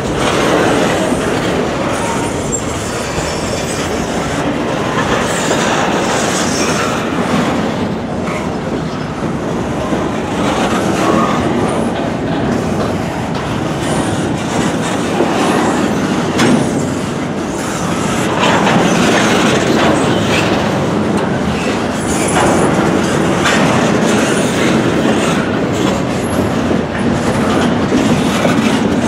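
Double-stack intermodal freight train's well cars rolling past close by: a steady, loud rumble of steel wheels on rail, with a recurring clickety-clack of wheel clicks.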